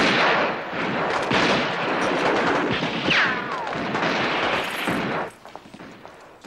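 Sustained rapid gunfire, many shots in quick succession, stopping abruptly a little after five seconds in. A short falling whistle-like sound cuts through it about three seconds in.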